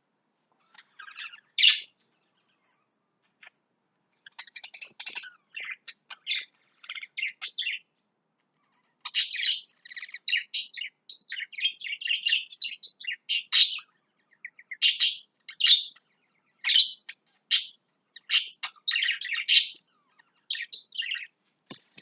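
Pet lovebirds chirping in many short, high calls, sparse at first and much busier from about nine seconds in.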